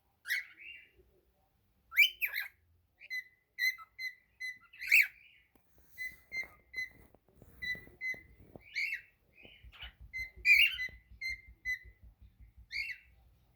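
Cockatiel whistling its song: runs of short, even whistle notes on one pitch, about three a second, broken by louder rising chirps.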